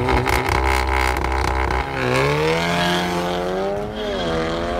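Volkswagen Golf hatchback's engine revving hard on a drag-strip launch. The revs dip about two seconds in, then climb steadily and drop again near the end at an upshift as the car accelerates away.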